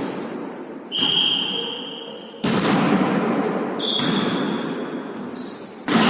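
A volleyball being struck and bouncing on a hard court floor, three sharp impacts that echo around a large hall, with short high squeaks in between.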